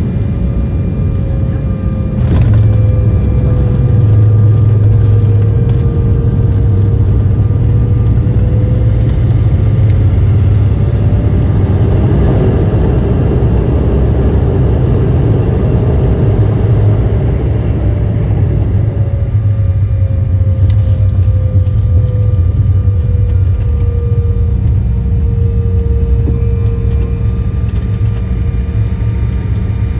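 Embraer 175's twin GE CF34 turbofans heard from inside the passenger cabin during takeoff: a loud, steady low rumble with a droning tone that slowly drifts up and down in pitch. The noise steps up about two seconds in and then holds.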